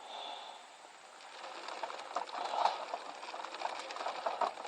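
Sunflower seeds poured from a scoop into a bird feeder: a dense run of many small ticks that builds from about a second and a half in.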